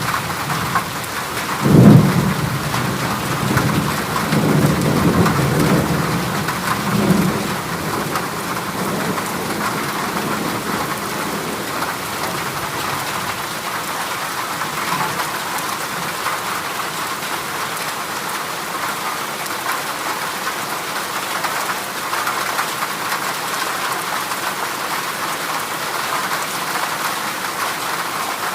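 Heavy rain falling steadily on a corrugated galvanized-iron (zinc) roof. A sharp thunderclap about two seconds in, then thunder rumbling on and fading out by about eight seconds.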